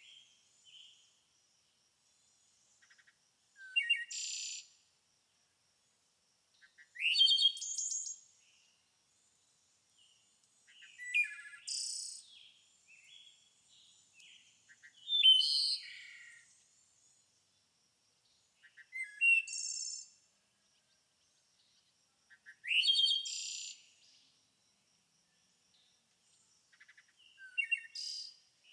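A songbird singing short phrases of quick, sweeping chirps, about one every four seconds, each lasting about a second, with quiet gaps between.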